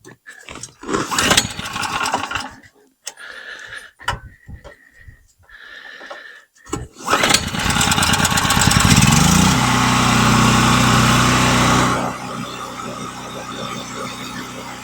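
A new DeWalt 4000 portable gasoline generator being started for the first time: several seconds of knocks and rattles as it is readied, then about seven seconds in the engine catches, revs up quickly and settles into steady running, a little quieter after about twelve seconds.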